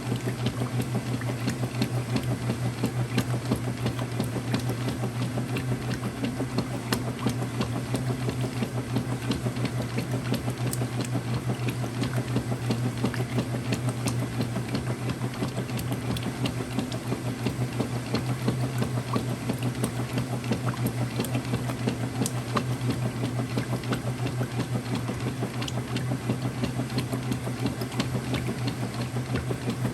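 Early-2000s Whirlpool direct-drive washer running steadily: an even motor hum with a fast, continuous mechanical chatter over it.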